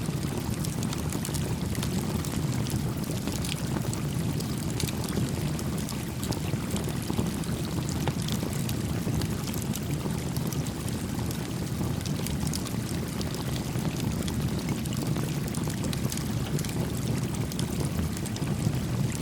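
A small campfire crackling, with many small pops and snaps, over the louder, steady babble of a gently flowing stream.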